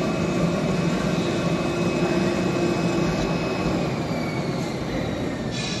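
CNC oscillating knife cutting machine running: a steady mechanical hum and whine with a few steady tones. About four seconds in, the higher whine glides down in pitch as the level eases off slightly.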